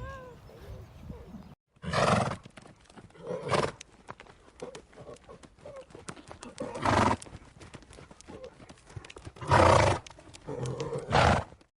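Horse neighing about five times, with hooves clopping in between.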